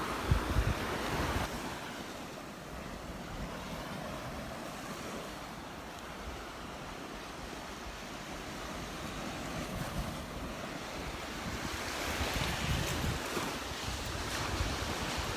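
Gulf surf washing onto the beach in a steady wash, swelling again near the end, with wind buffeting the microphone in low gusts.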